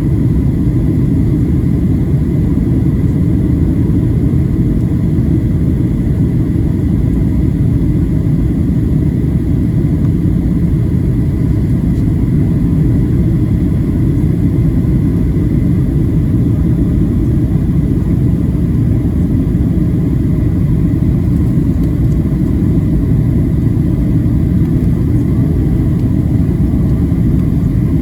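Steady cabin noise of a Boeing 737-700 airliner on approach: an even, unbroken rumble of airflow and the CFM56 turbofan engines, with a faint steady whine above it.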